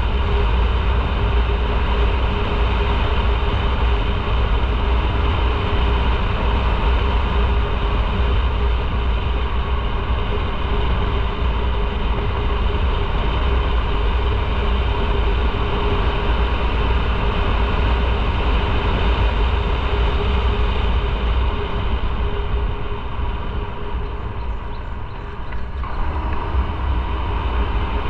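A motorcycle on the move, with the engine running under heavy wind rumble on the microphone. It eases off a little near the end, then picks up again.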